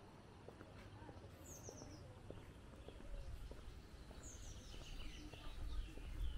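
A small songbird singing quick, high, falling phrases: one short phrase about one and a half seconds in and a longer run from about four seconds in, over a faint low background rumble with a few light ticks.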